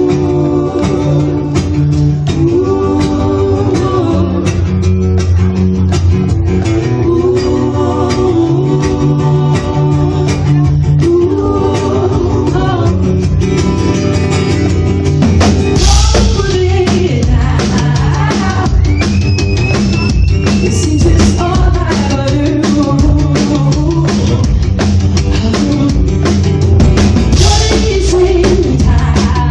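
A band playing a rock song live, with drum kit, guitar and singing. There is a loud crash about halfway through and another near the end.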